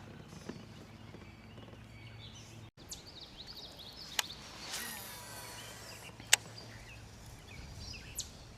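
Outdoor river ambience: a low steady hum and faint background noise, with birds chirping in short calls and a couple of sharp clicks. The sound drops out completely for a moment just before three seconds in.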